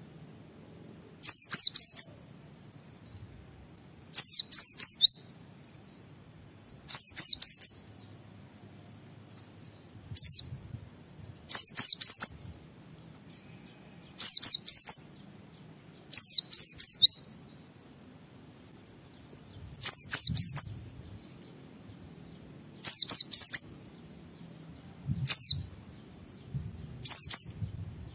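A white-eye (pleci) singing short, high-pitched twittering phrases of quick downward-sliding notes, each under a second long, repeated every two to three seconds.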